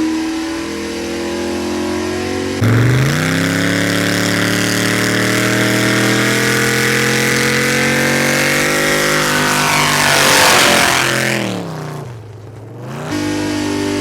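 Race truck engine held at high revs through a burnout, with the rear tyres spinning. The revs jump sharply about two and a half seconds in and stay up, then fall away near the end. There is a brief dip before the engine picks up again.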